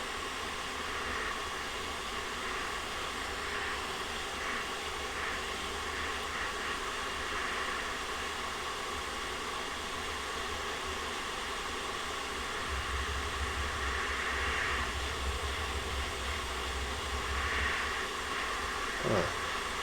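Hot-air rework station blowing a steady hiss of air while desoldering a chip from an engine control unit's circuit board. A low rumble comes up in the middle.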